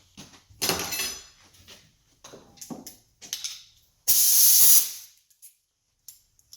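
Compressed-air blow gun giving one short hissing blast, a little past the middle, among handling knocks and clatter.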